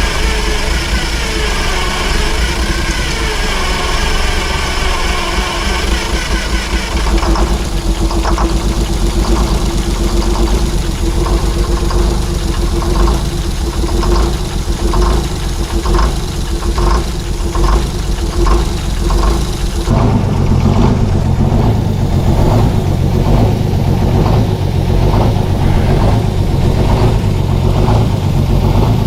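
Detroit Diesel engine of a Chevy C90 semi truck running just after being started. A regular pulsing runs through the middle, and about twenty seconds in the sound changes abruptly to a deeper, heavier note.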